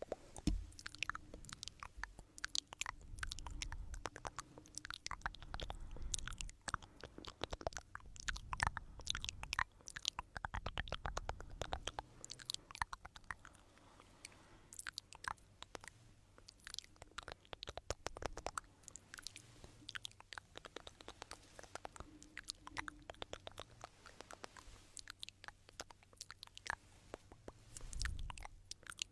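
Close-miked ASMR trigger sounds: a dense, uneven run of crisp clicks and crunchy scraping, with soft low thumps through the first half and again near the end.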